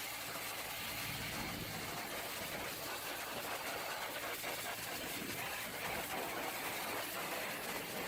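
An engine running steadily under a constant broad hiss.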